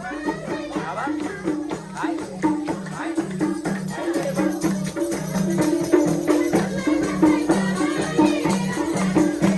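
Instrumental break of Nepali folk dohori music: a steady rhythm of low, pitched hand-drum strokes with a shaker or tambourine jingling over it, and no singing.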